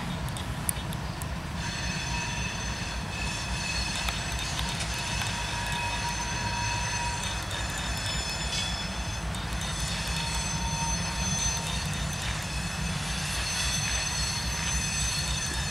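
Loaded coal hopper cars of a freight train rolling past with a steady low rumble. Thin, steady high-pitched squeals from the wheels on the rails run over it, with a few faint clicks.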